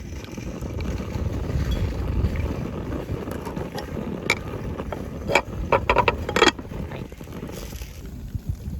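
Wind buffeting the microphone with a low rumble, and a quick run of sharp clatters about five to six and a half seconds in.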